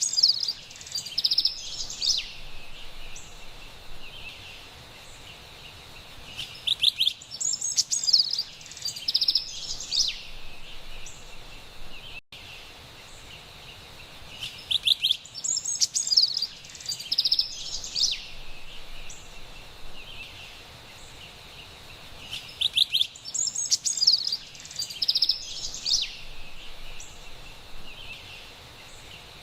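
Carolina wren singing: a loud burst of rapid, bright song phrases, repeated about every eight seconds, four times over, above a faint steady background hiss.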